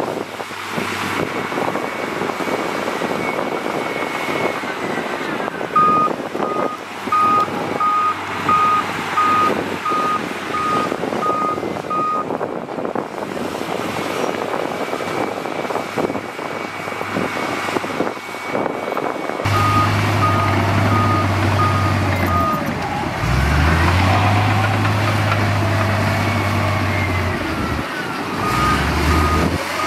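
Heavy earthmoving machinery running, with a reversing alarm giving a steady single-tone beep three times over, each for several seconds. A low steady engine hum comes in suddenly about two-thirds of the way through.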